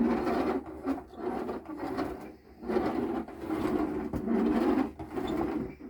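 Manual push carpet sweeper pushed back and forth over the floor, its brush roller whirring and its wooden and plastic body rattling, in about six strokes roughly a second apart.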